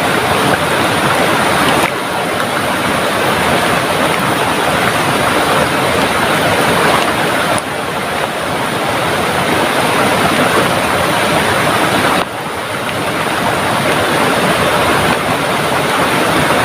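Heavy tropical rain pouring down together with a rushing river, a dense, steady hiss that dips briefly three times.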